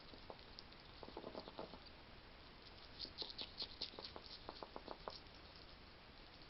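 Wild hedgehog chewing and crunching food: faint clusters of quick, crunchy clicks about a second in, and again in a denser run from about three to five seconds.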